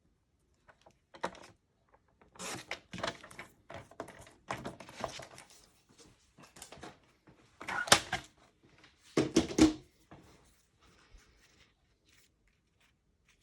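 Card stock being trimmed and handled on a craft tabletop: paper rustling and sliding with scattered taps, and two louder knocks a little past the middle.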